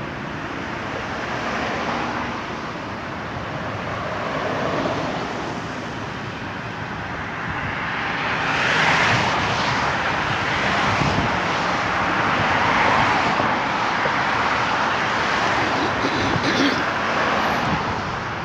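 A steady rush of vehicle noise, growing louder about halfway through and staying up.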